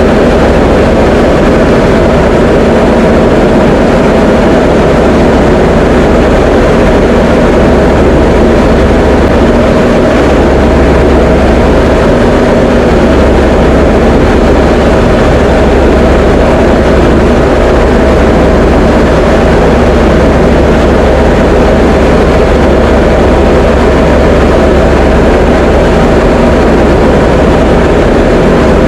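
Diamond DA20 light aircraft's piston engine and propeller droning steadily, heard loud from inside the cockpit. A low hum under the drone grows a little stronger about ten seconds in.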